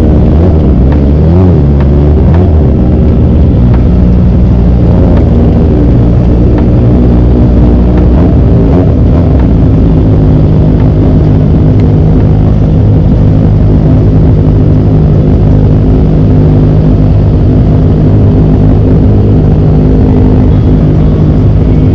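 Kawasaki ZX25R's inline-four engine running. Its pitch shifts up and down in the first ten seconds or so, then holds steady.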